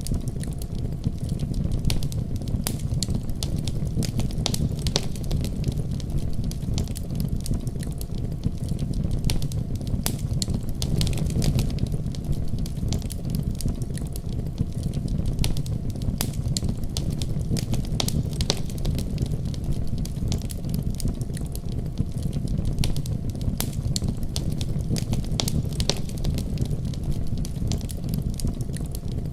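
Wood fire crackling and popping in irregular sharp snaps over a steady deep rumble of a heavy winter storm.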